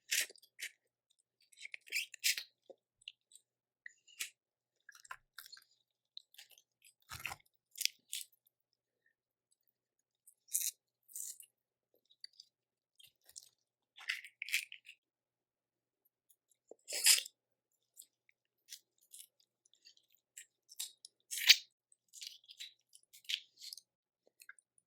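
Close-up eating sounds of seafood boil: intermittent wet chewing, mouth clicks and crunches, in short scattered bursts with quiet gaps, the loudest crunches near the middle and about twenty-one seconds in.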